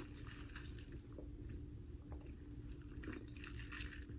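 A person chewing and biting food close to the microphone, with scattered soft mouth clicks and smacks.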